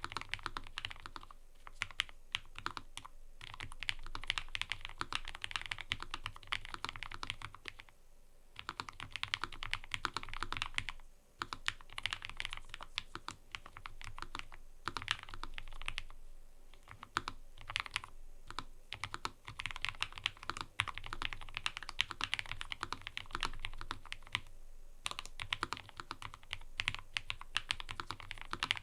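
Fast, steady typing on a mechanical keyboard: a dense run of key clicks, broken by brief pauses about 8, 11, 16 and 25 seconds in.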